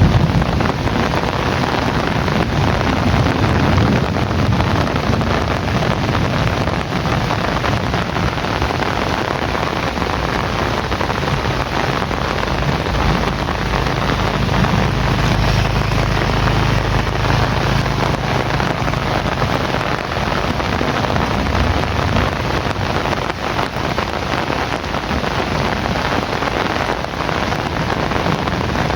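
Heavy rain falling steadily in an even hiss, with a low rumble that swells for several seconds in the middle.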